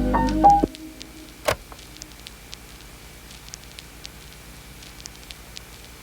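A piano lo-fi track ends in the first second, leaving a wood campfire crackling softly with scattered small pops, one louder pop about a second and a half in.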